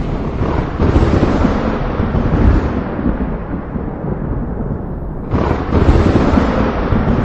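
Thunderstorm: a continuous deep rolling rumble of thunder, with a sharp crack about a second in and another at about five seconds, each dying away into the rumble.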